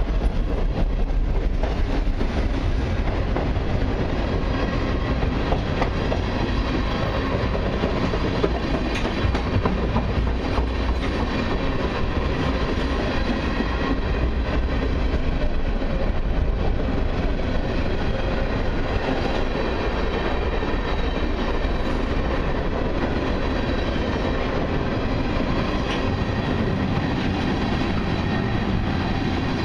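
Covered hopper and tank cars of a slow mixed freight train rolling past. Their steel wheels make a steady rumble on the rails, with clicks over the rail joints.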